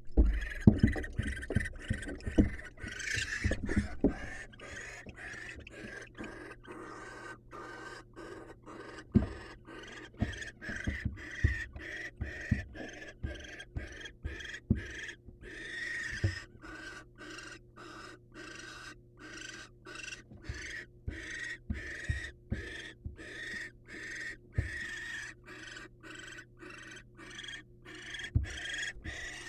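Barn owl giving a long series of hissing, snore-like begging calls, about two a second. Low thumps of the owls moving on the nest-box floor come mostly in the first few seconds.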